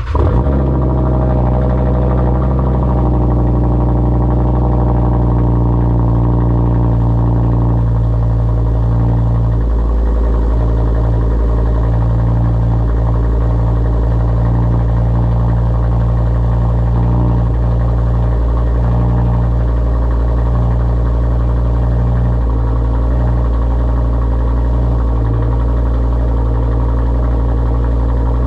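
2019 Audi RS3's turbocharged 2.5-litre five-cylinder idling steadily through an AWE track exhaust, just after being started.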